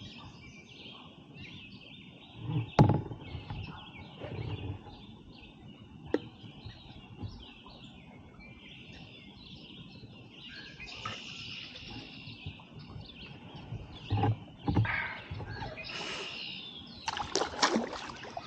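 Many small birds chirping and calling over one another, with a sharp knock about three seconds in and a few splashy kayak paddle strokes in the second half.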